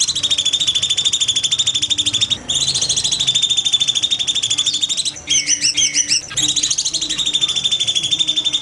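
Recorded songbird song for training competition birds: long runs of a very rapid, high, shrill trill, each broken off after a couple of seconds, with a short phrase of swooping, varied notes a little past the middle.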